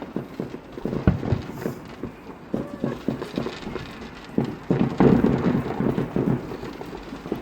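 Fireworks popping and crackling, with a dense run of bangs about five seconds in.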